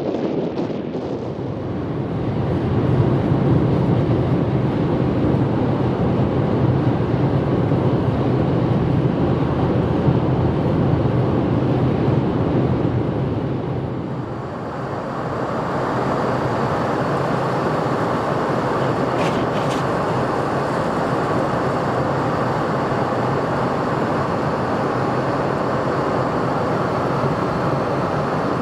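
Steady noise of a vehicle on the move, road and tyre noise, low at first, then about halfway through turning higher and hissier.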